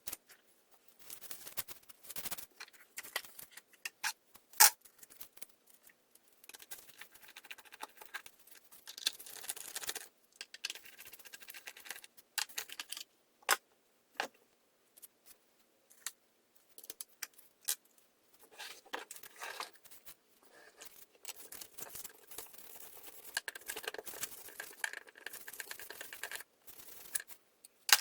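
Small parts and hand tools being handled, with scattered sharp clicks and taps among short stretches of scraping and rustling. No engine is running.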